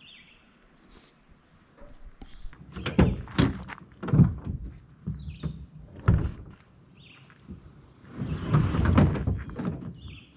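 Hollow thunks and knocks from a kayak and its gear being handled for launch, followed near the end by a longer scraping rush. A bird chirps repeatedly throughout.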